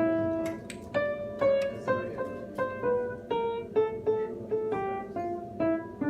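A plucked string instrument playing a slow melody of single notes, about two a second, each struck sharply and fading, the line mostly stepping down in pitch.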